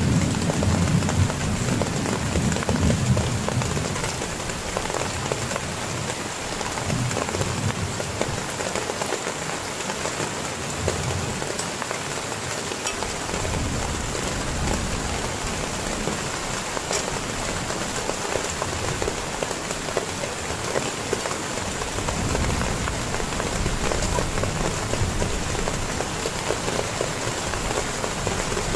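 Heavy rain falling steadily as a dense hiss of drops, with a low rumble swelling at the start and again in the last several seconds.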